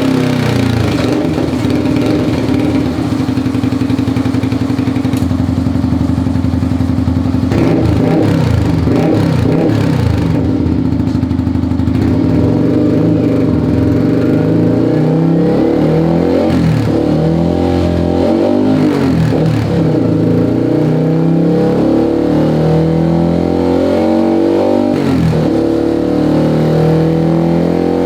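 Automatic scooter's single-cylinder engine revving through a 3Tech EvoX ADB valve-type aftermarket exhaust. The pitch rises and falls several times.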